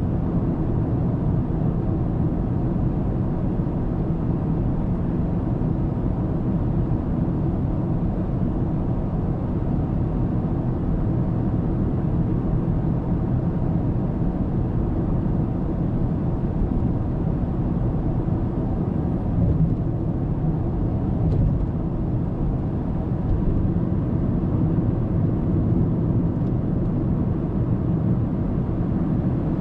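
Steady low rumble of tyre and road noise with engine hum from a car cruising on an expressway, as picked up by a dashcam microphone inside the car.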